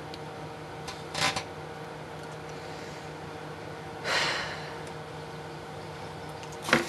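Microwave oven running with a steady hum while a lit candle inside makes plasma. Two short bursts of noise come through, one about a second in and a longer one around four seconds.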